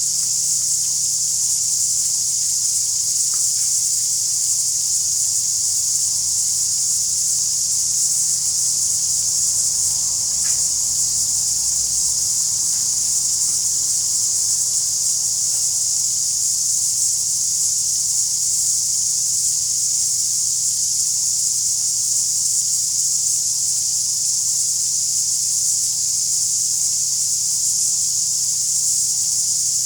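A steady high-pitched hiss that holds at one level throughout, with a faint low hum beneath it; no engine is heard running.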